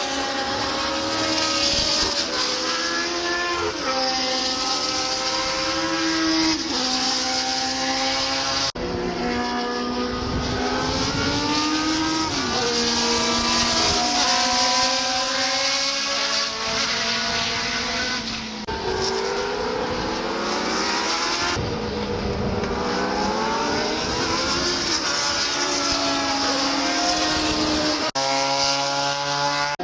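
Historic Formula One cars racing, several engines at high revs at once, each note climbing in pitch and dropping in quick steps at the gear changes.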